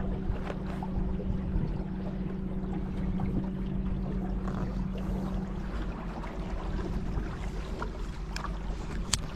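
Steady wind and river-water noise from a kayak on the water, with a low steady hum that stops about halfway through and a couple of sharp clicks near the end.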